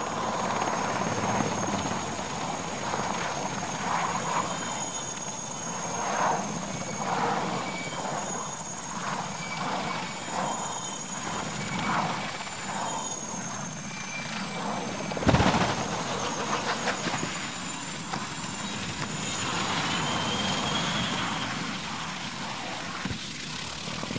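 Aircraft engine noise with a thin high whistle that wavers in pitch. A single sharp bang about fifteen seconds in is the loudest moment.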